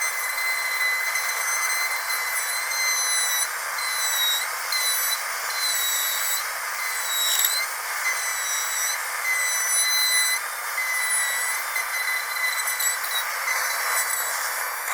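Dentist's drill running: a steady high whine over a hiss. Its pitch dips briefly a few times, most clearly about a third and half way through.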